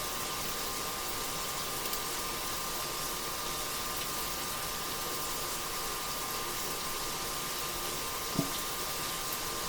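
Beef browning in a pan, sizzling as a steady hiss. One brief soft knock about eight seconds in.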